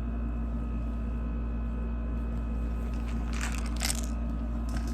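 Steady low room hum, with short rustles of crocheted yarn fabric being handled about three and a half seconds in and again near the end.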